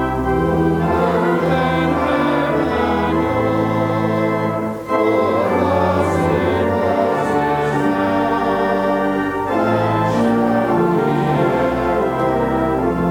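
Organ playing a slow hymn with a choir singing along, in long held chords, with a brief break between phrases about five seconds in.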